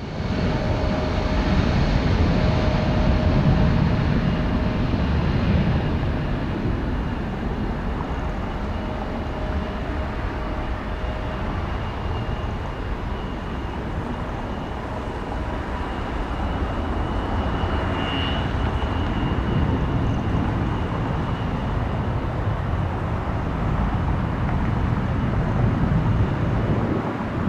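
Boeing 737 MAX 8 airliner's CFM LEAP-1B turbofans on arrival: a steady rush of jet noise with a faint high whine, loudest in the first few seconds.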